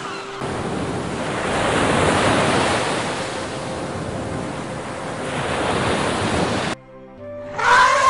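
Sea surf washing on a beach, a steady rushing that cuts off suddenly near the end. Then a loud elephant call, rising and falling in pitch, lasting about a second.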